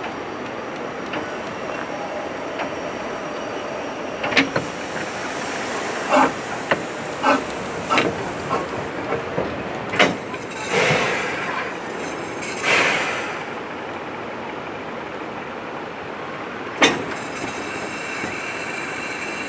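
Narrow-gauge railway train running along the line, heard from a carriage: a steady running noise with a scatter of short, sharp knocks and clatters from the wheels and carriage, and two longer, louder swells about eleven and thirteen seconds in.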